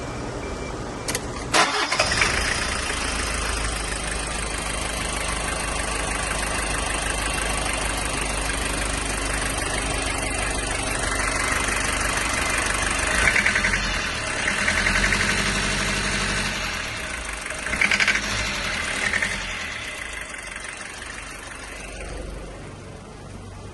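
Toyota 1KZ-TE four-cylinder turbo-diesel in a 1995 Hiace cranking and starting just under two seconds in, then running. Its loudness swells a few times past the middle, then it quietens near the end. The engine has a knock, with white smoke, that the owner suspects comes from a timing, fuel or valve problem.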